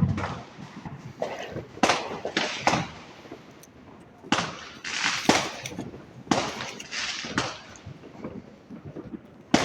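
Fireworks going off: a dozen or so sharp bangs at irregular intervals, with crackling in between.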